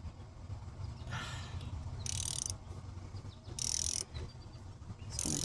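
Socket ratchet clicking in three short runs about a second and a half apart, as the engine mount bolts are worked loose.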